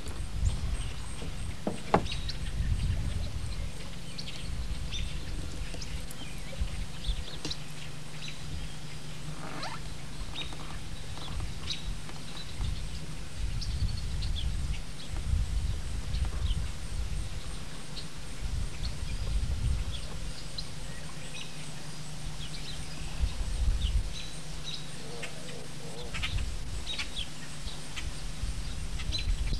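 Outdoor ambience: wind buffeting the microphone in uneven low rumbles over a steady low hum, with scattered faint high chirps.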